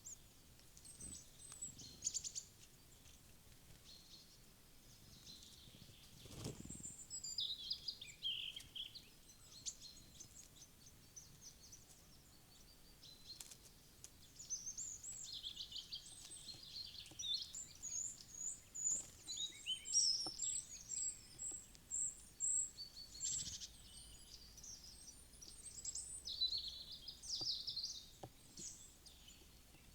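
Several small wild songbirds chirping and twittering in quick, high bouts. The calls are busiest from about halfway through to near the end.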